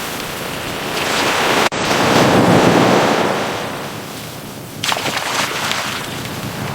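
Waves washing in and receding in slow surges, with wind buffeting the microphone. The sound cuts out for an instant a little under two seconds in.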